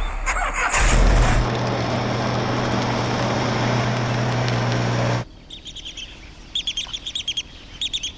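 A small motor runs with a steady hum and hiss, then cuts off abruptly about five seconds in. After that a bird chirps in quick repeated bursts.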